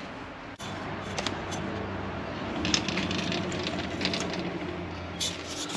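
Metal tools and parts clinking and clattering as they are handled and set down at a lathe, in scattered light knocks that cluster in the middle and near the end, over a steady low machine hum.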